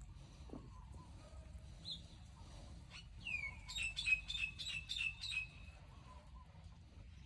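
A small songbird calling: a single chirp, then about halfway through a swooping note followed by a quick run of about eight short, sharp repeated notes, roughly five a second, over a faint low background rumble.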